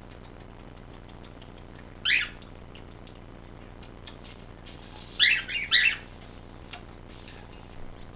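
Cockatiel chirping: one short chirp about two seconds in, then a quick run of three or four chirps around five seconds in, with faint light clicks in between.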